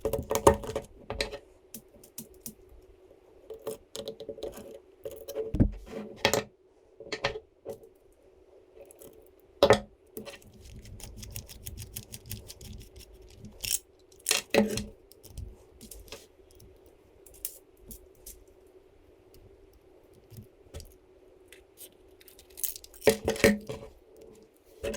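Irregular clicks, taps and light clinks of small 3D-printed plastic parts and metal screws, nuts and washers being handled and fitted during assembly, with a couple of louder knocks, over a faint steady hum.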